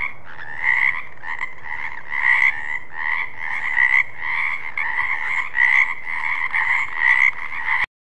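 Frogs croaking in a steady repeated call, about two croaks a second, cutting off suddenly near the end.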